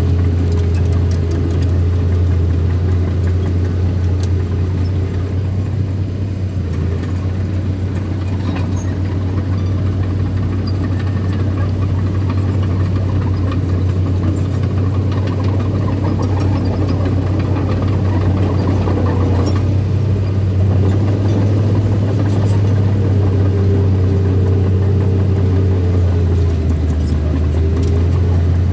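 Diesel engine of a small bulldozer running steadily with a deep hum, the pitch shifting slightly near the end.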